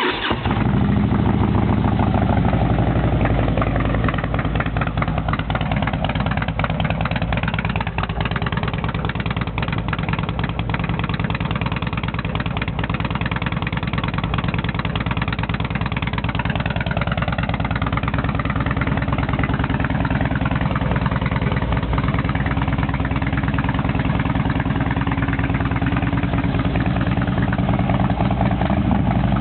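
Harley-Davidson Road King V-twin engine through Hooker Tuned Flow mufflers, firing up suddenly and then idling steadily.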